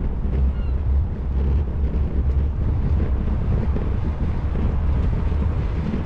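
Wind buffeting the microphone of a GoPro camera on a moving bicycle: a steady low rumble.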